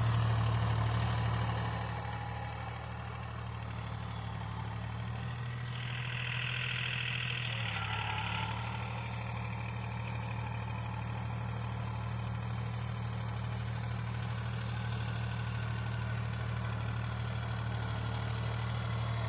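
Tractor engine idling steadily, a little louder in the first couple of seconds. About six seconds in a higher-pitched whine joins for roughly two seconds, as the engine's low pitch shifts slightly.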